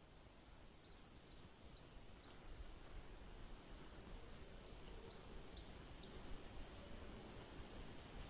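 Faint, high calls of a small bird: two runs of about four short, arching notes a few seconds apart, over a faint low rumble.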